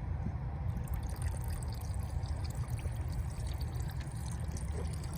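Gasoline trickling and pouring out of a tipped-over Toro lawn mower's fuel tank into a container of used oil, a fine crackly splashing over a steady low rumble.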